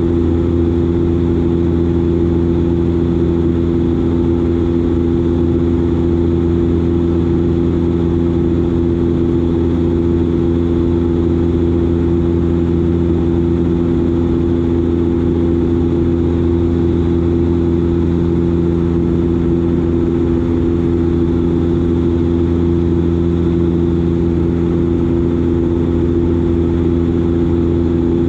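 Dash 8 Q400's Pratt & Whitney PW150A turboprops and propellers running steadily in flight: an even, unbroken drone with several steady low tones over a wash of rushing noise.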